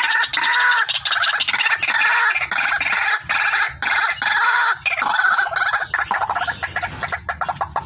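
Female white-breasted waterhen (ruak-ruak) calling in a dense, unbroken run of short, harsh repeated notes.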